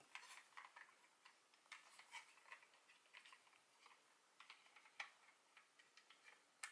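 Faint, irregular light clicks and taps of a plastic toy Progrise Key being handled and flicked around in the hand.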